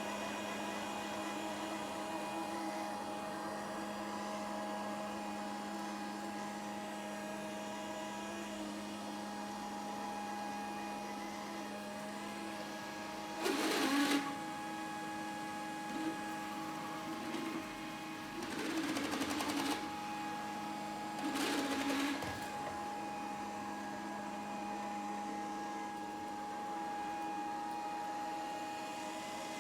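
Grundig VCR 2131 robot vacuum cleaner running with a steady motor hum. Three brief louder surges of noise come in the middle of the stretch, the last two about three seconds apart.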